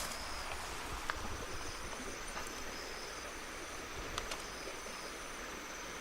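Outdoor ambience: a steady hiss with insects trilling high and thin, starting and stopping, and a few sharp clicks about a second in and twice about four seconds in.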